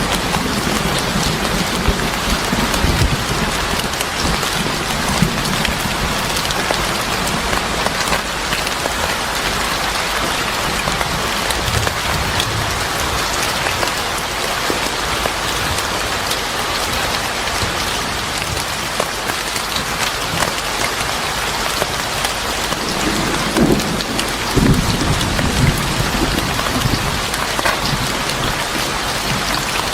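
Steady heavy rain falling in a dense patter of drops, with low rumbles near the start and again about 24 seconds in.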